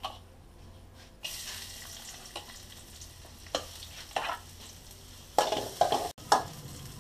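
Onion going into hot ghee in a pan, which starts sizzling suddenly about a second in and keeps sizzling. A spoon knocks and scrapes against the pan several times in the second half as the onion is stirred.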